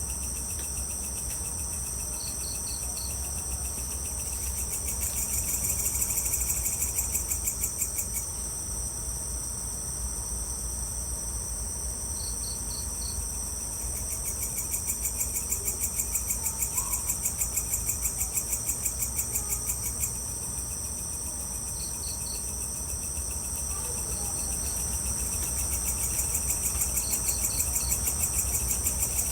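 Evening chorus of crickets and other insects: a steady high-pitched trill throughout, joined by a lower pulsing trill that swells in and out, and short groups of three or four chirps every several seconds. A low steady hum runs underneath.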